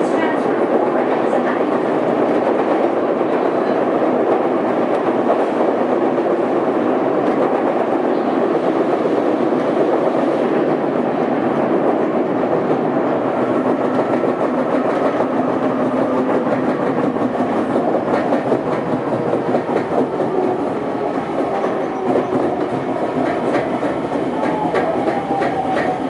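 Odakyu 2000 series electric train running at speed, its wheels pounding rhythmically from a flat spot worn on a wheel, over a steady rolling rumble. In the last few seconds a whine falls in pitch as the train slows.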